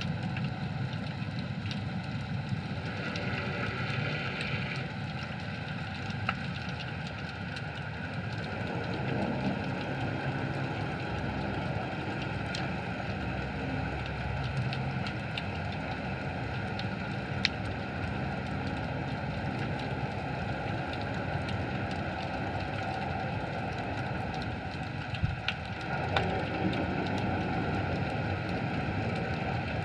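Underwater ambience picked up by a dive camera: a steady low rumble under an even crackle of faint clicks, with a few sharper ticks later on.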